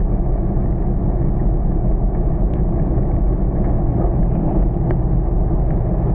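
A car driving steadily, its engine and road noise making a continuous low rumble, with two faint ticks about two and a half and five seconds in.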